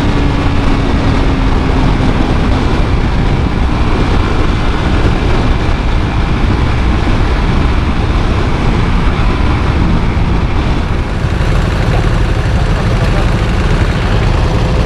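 Suzuki GSX-R150's single-cylinder engine on its stock exhaust, heard under a dense, steady low rumble. The engine note falls a little in the first few seconds.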